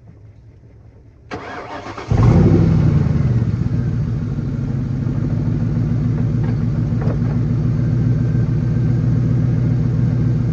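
Ford Mustang's 4.6-litre V8 cranked briefly by the starter, catching about two seconds in with a short flare, then running loud and steady with its exhaust blown off.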